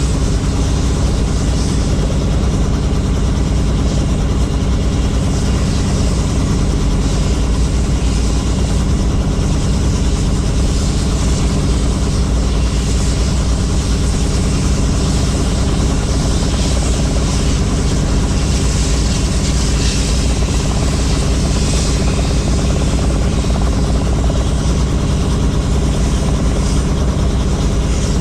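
Helicopter in flight, heard on board with the doors off: steady rotor and engine noise with a constant rush of wind.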